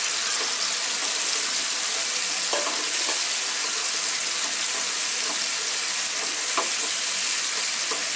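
Loitta shutki (dried Bombay duck) pieces frying in hot oil with garlic, onion and spice paste in a flat pan: steady sizzling, with a few short scrapes as the pan is stirred with a slotted spoon.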